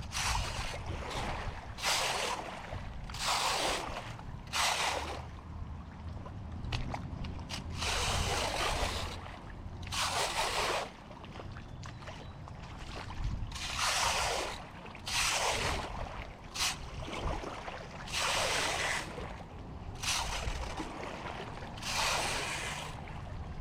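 Repeated rushing splashes of water, one every second or two, over a steady low rumble.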